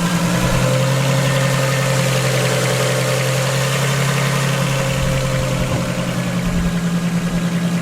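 Nissan RB25 2.5-litre turbocharged straight-six in an S14 240SX idling with a loud, steady exhaust note. The idle note shifts and pulses a little about six seconds in.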